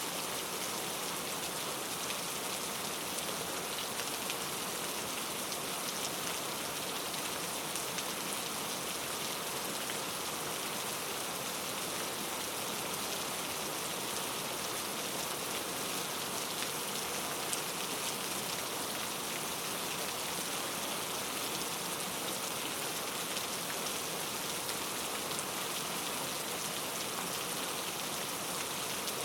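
Steady rain falling, an even hiss of many small drops ticking on a surface.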